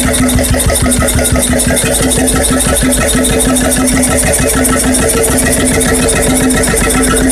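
Freris-built 12 hp two-stroke diesel engine from the 1950s running steadily with an even firing beat.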